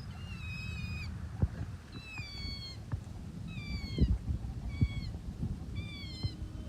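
A series of high, falling whistled animal calls, about one a second and sometimes in pairs, with a few soft thumps underneath.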